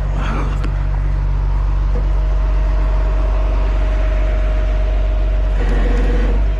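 Heavy diesel truck engine running at a steady speed, with a steady thin whine above it, during a winch recovery.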